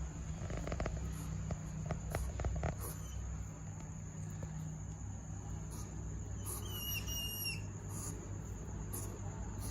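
Pygmy hedgehog during mating, giving a short, high bird-like whistling chirp about seven seconds in, after a run of soft clicking sounds in the first few seconds.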